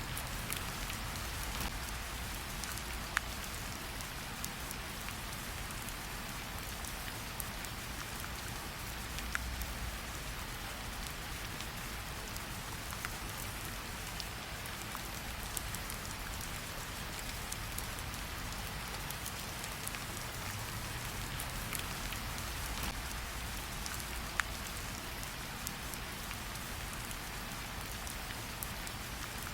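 Steady rain falling in a continuous hiss, with scattered sharp pops and crackles from a campfire.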